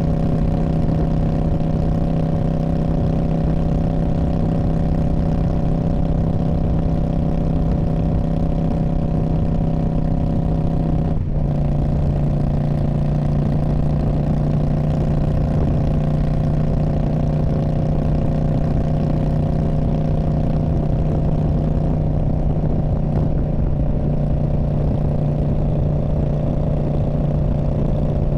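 2019 Indian Scout Bobber's 1133 cc V-twin running through a Freedom Performance Radical Radius exhaust at a steady, held engine speed. There is a brief break about eleven seconds in, after which the engine note settles slightly lower.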